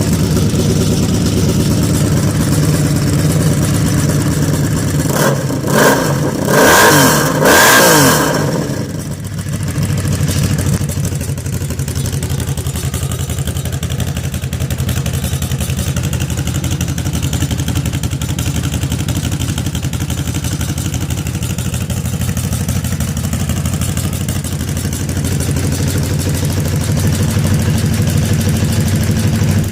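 Honda Magna V65's V4 engine idling through a 4-into-1 exhaust with a homemade muffler, blipped three times in quick succession about five to eight seconds in, each rev rising and falling back, then settling to a steady idle.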